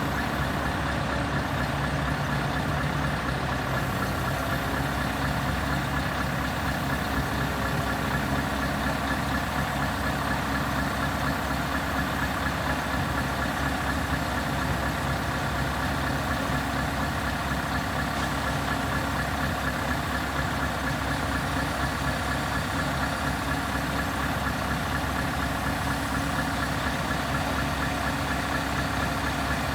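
Scania R580 truck's V8 diesel engine idling steadily.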